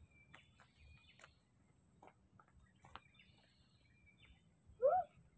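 Faint, scattered bird chirps over a steady high hiss. A short voiced call near the end, pitched up then down, is the loudest sound.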